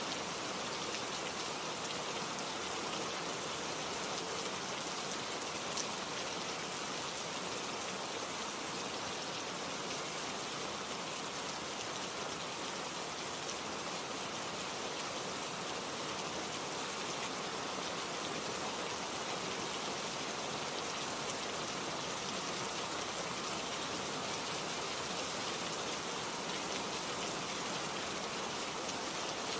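Steady rain falling, a dense even patter of drops with faint single drop ticks now and then.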